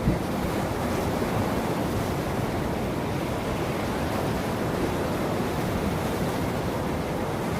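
Ocean surf washing ashore in a steady, continuous rush of waves.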